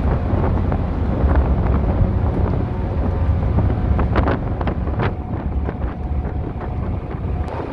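Wind buffeting the microphone over the steady low rumble of a car ferry's engines underway, with a few short louder gusts near the middle.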